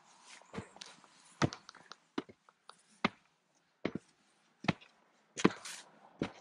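Footsteps on the wooden steps and boards of a viewing platform: a string of irregular knocks, the loudest about a second and a half in and near the end.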